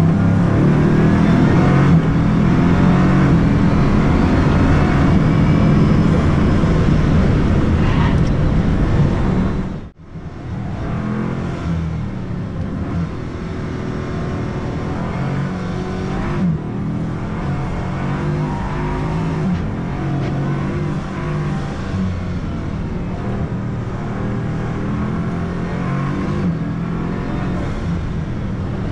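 Bugatti Chiron Pur Sport's quad-turbocharged W16 engine under hard acceleration on a track, heard loud from inside the cabin, its pitch climbing and stepping with gear changes. About ten seconds in the sound cuts to the car heard from outside, quieter, still running at speed.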